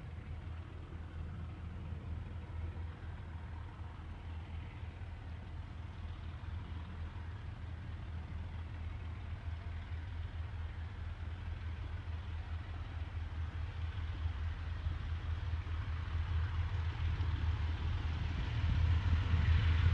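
Narrow-gauge steam train approaching after its whistle, a low rumble growing steadily louder.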